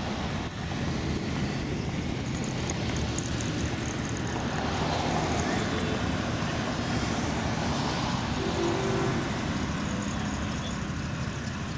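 Car engines running as show cars drive slowly past one after another, one passing close and growing louder around the middle before fading.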